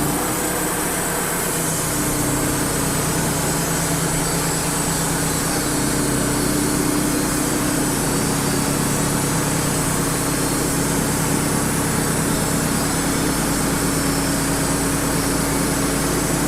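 Wood-Mizer LT35 HD portable sawmill running steadily under power while its band blade saws through a red oak log, with a steady hum that strengthens about two seconds in.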